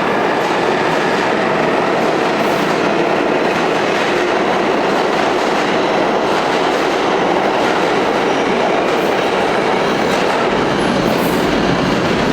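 Moving train running on its rails: a steady, even noise of wheels and rolling stock with faint clicks over it.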